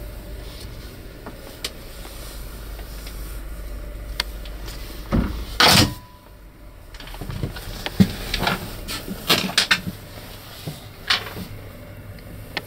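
Knocks and clattering from fittings being handled and bumped inside an aircraft cabin: a loud clatter about five and a half seconds in, then a run of smaller knocks, over a low steady hum.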